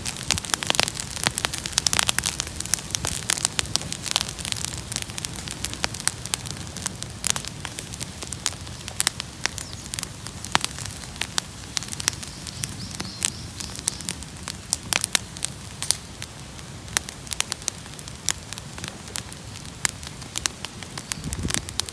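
Bonfire of cleared garden debris crackling, with many irregular sharp pops and snaps over a steady hiss of burning.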